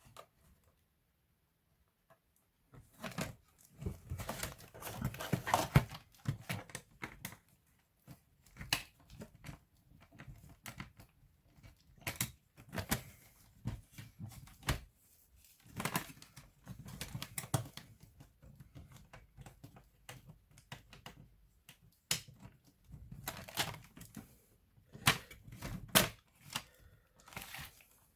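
Hands working on a laptop's plastic case and parts: irregular clicks, taps and scraping. It starts about three seconds in and keeps on in uneven bursts.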